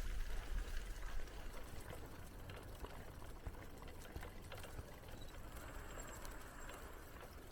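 Wind rumbling on the microphone over a steady rustling hiss of bicycle tyres rolling along the path, with scattered small clicks and rattles; a little louder in the first second.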